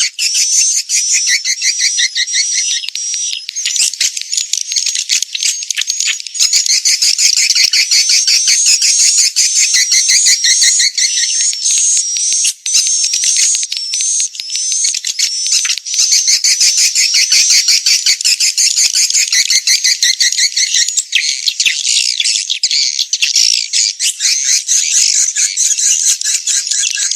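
Edible-nest swiftlet calls: a dense, continuous stream of rapid, high-pitched twittering chirps and clicking trills. It is a lure recording of the kind played at swiftlet houses to draw the birds in to nest.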